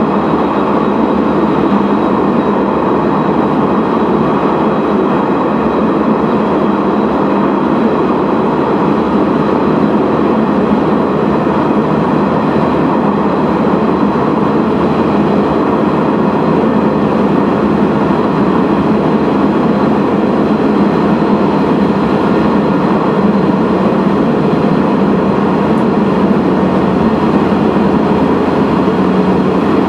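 Sanriku Railway 36-series diesel railcar running at speed through a tunnel: the steady, loud noise of its engine and its wheels on the rails, with a faint high steady tone over it.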